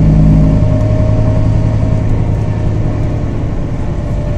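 Scania 320 hp diesel engine of a city/intercity bus, heard from inside the cabin. The engine note drops in pitch about half a second in, then runs steadily, with a steady whine above it.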